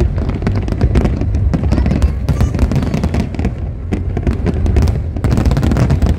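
Fireworks display going off: a dense run of sharp crackling reports over a continuous low rumble of bursts.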